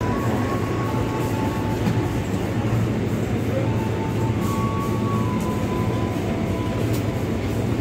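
Steady low hum and rumble of a passenger train standing at a platform, with faint thin high tones that come and go.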